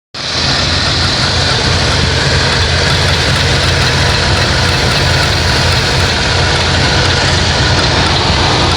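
1988 Plymouth Gran Fury's V8 engine idling steadily, with a light, regular clicking from the engine whose cause is unknown.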